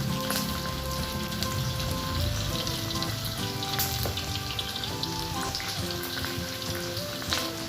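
Food sizzling and crackling steadily as it fries in hot oil, with instrumental background music.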